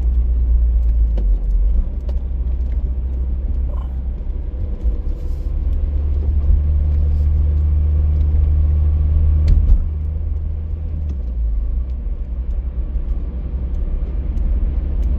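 Car driving along, a steady low rumble of engine and road noise, with a stronger engine drone for a few seconds in the middle.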